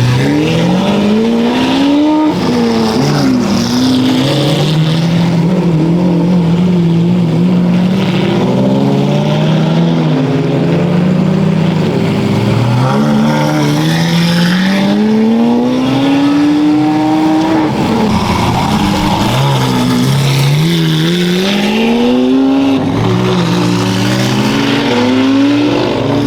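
Endurance race cars accelerating past one after another, each engine revving up through the gears: a rising note that drops back at every upshift, repeated several times, with other cars' engines heard over one another.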